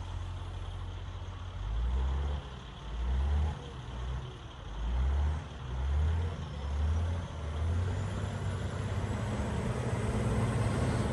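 Motor vehicle running, a low engine rumble that swells and eases every second or so, settling into a steadier hum in the second half.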